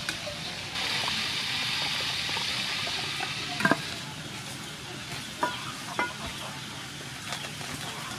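Pork pieces deep-frying in a pot of soybean oil, a steady sizzle as a metal ladle stirs them, growing louder about a second in. The sizzle fades after about four seconds, and a few sharp clinks and knocks follow as a frying pan is handled and set on a clay stove.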